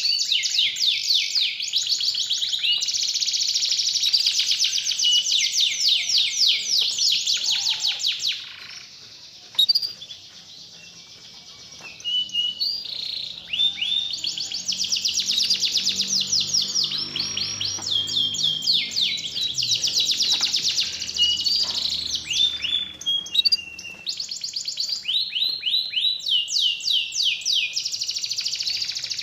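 Domestic canary song: fast rolling trills and bright chirps, one run after another. The song pauses about nine seconds in and picks up again about three seconds later. It is played as a lure to set a silent canary singing.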